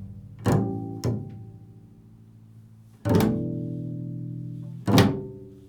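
Improvised music on a low-pitched string instrument: four plucked notes, each left to ring and slowly fade. The third note rings for nearly two seconds before the fourth is struck.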